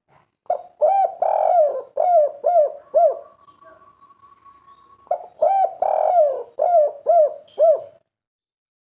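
Spotted dove (derkuku) of the song type keepers call 'kuk 3' cooing: two phrases of about six coos each, a couple of seconds apart.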